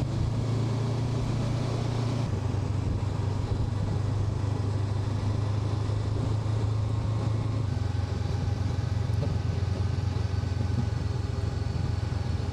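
Honda NX500 parallel-twin engine running at a steady cruise while riding, with wind noise over it; the engine note drops a little about two seconds in.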